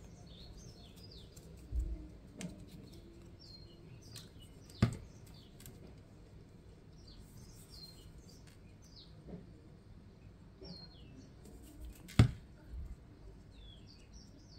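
Birds chirping in the background, short repeated calls scattered throughout, with two sharp taps, one about five seconds in and a louder one about twelve seconds in.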